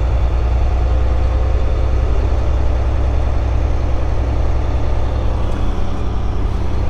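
Semi-truck diesel engine running at low speed, a steady low drone heard from inside the cab.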